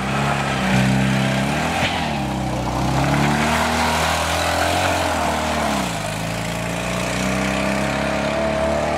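Fiat 126p's air-cooled two-cylinder engine revving hard as the small car is driven around a course, its pitch climbing and dropping sharply twice, about two and six seconds in, over the noise of tyres on loose dirt.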